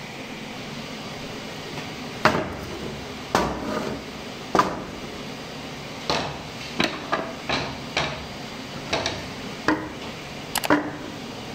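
Irregular sharp knocks of a hand tool striking wood, about a dozen of them, some in quick clusters, over a steady background hiss.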